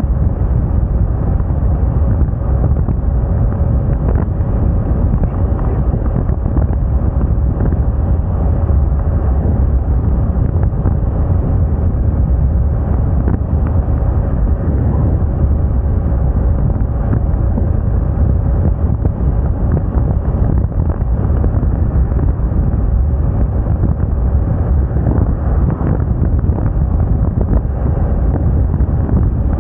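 Wind buffeting the microphone as a Moda Moca 110 scooter rides along at a steady speed, its engine running at an even pitch under a heavy, constant low rush of wind.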